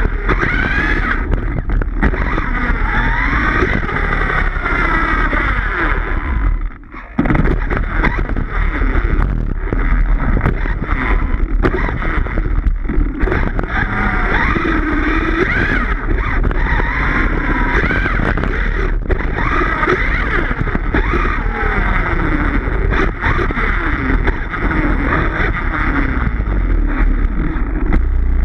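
Electric motor of a 1/5-scale Redcat Rampage XBE RC car whining up and down in pitch as the throttle is worked, over a steady rumble from the drive and tyres on grass. The sound drops off briefly about seven seconds in, then picks up again.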